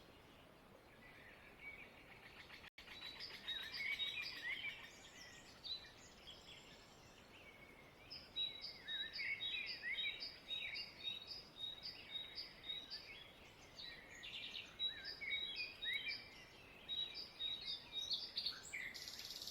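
Several birds chirping and singing faintly. From about eight seconds in, one bird repeats a short high note over and over, about two a second, over scattered chirps from the others.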